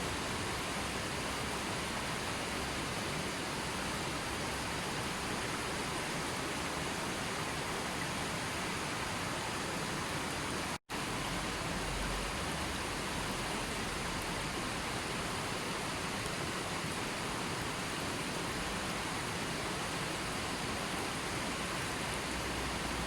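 Steady rushing water noise, even and unchanging, which cuts out to silence for an instant about eleven seconds in.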